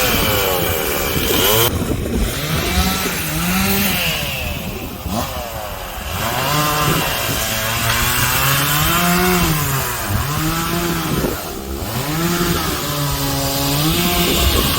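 Chainsaw running on a fallen tree, its engine pitch rising and falling repeatedly as the throttle and cutting load change.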